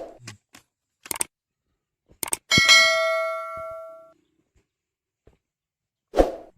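Metal clanks and knocks, one of them a struck metal piece that rings on with a clear bell-like tone and dies away over about a second and a half.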